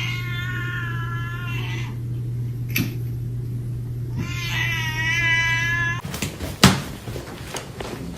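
A cat gives two long, drawn-out meows of about two seconds each over a steady low hum. The hum then stops, and a few knocks and one sharp thump follow.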